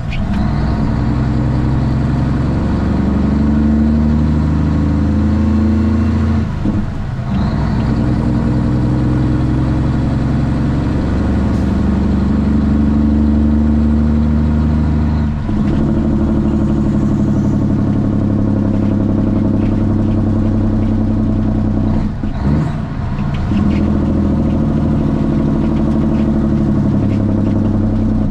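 Straight-piped Cummins ISX inline-six diesel of a Kenworth T800 truck running loud and steady under way, its engine note dropping out briefly three times before picking up again.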